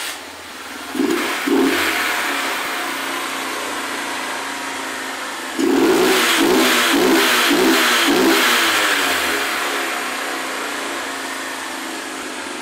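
Honda CG 125 motorcycle's single-cylinder four-stroke engine starting, blipped twice about a second in, then idling, then revved in a quick run of about five throttle blips before settling back to a steady idle. It is running on a new cylinder head that replaced one with a loose valve that had made a strange noise, and it runs smoothly.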